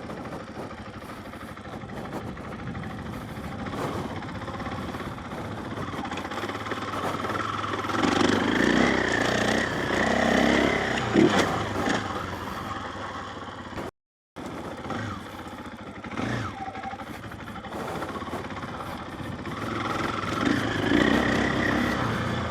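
KTM 500 EXC's single-cylinder four-stroke engine running under throttle as the dirt bike is ridden, pulling hardest a little past a third of the way in, with a sharp knock at about the midpoint. The sound cuts out completely for a moment about two-thirds through, then the engine carries on.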